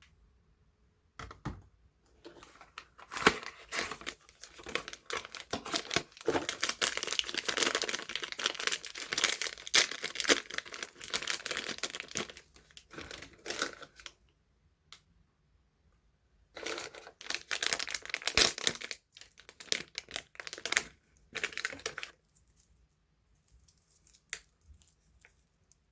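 Soap packaging being unwrapped by hand, the wrapper handled and pulled open in two long stretches with a quiet pause between.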